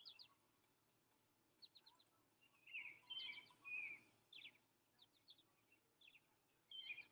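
Faint birdsong: small birds chirping, with quick runs of three or four short high notes and a few slurred notes, in scattered phrases with quiet gaps between.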